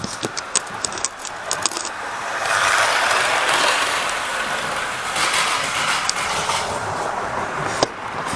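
Model train running along the track past the camera: a run of sharp wheel clicks, then the rolling noise of the passing train swells, peaks about three seconds in and dies away, with a few more clicks near the end.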